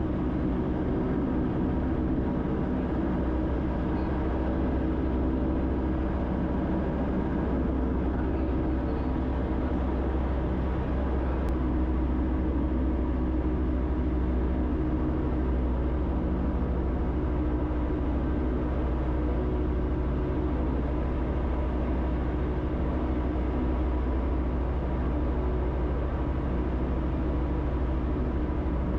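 Aircraft in flight, heard from inside: a steady engine drone with a constant hum that doesn't change in pitch or level.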